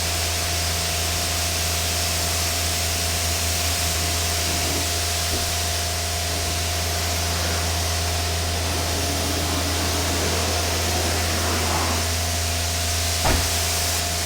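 Pressure washer running and spraying water onto a car: a steady motor hum under a loud, even hiss of spray, with one short knock about a second before the end.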